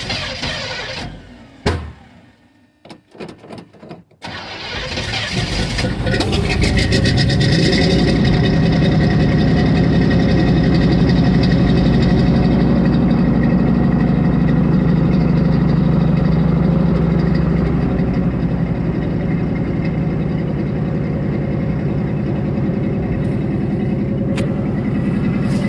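1982 Chevy square-body pickup's engine heard at the exhaust pipe on a cold start. The sound drops out about a second in, gives a few uneven puffs, then picks up about four seconds in and settles into a steady fast idle on the choke's second step.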